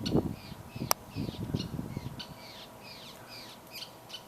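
Small gray perching birds giving a rapid series of short, high, falling chattering calls, one after another. Low thumps and rumbles sound in the first two seconds, with a sharp click about a second in.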